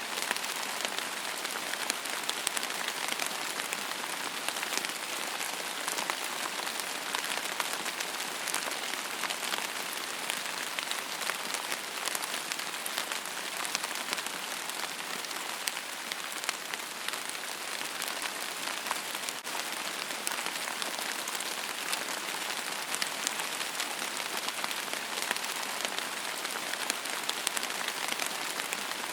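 Steady rain falling on a surface: an even hiss dotted with many small drop ticks.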